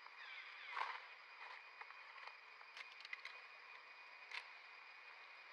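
Faint steady background hiss with a brief high squeal that falls in pitch about a second in, followed by a few scattered light clicks.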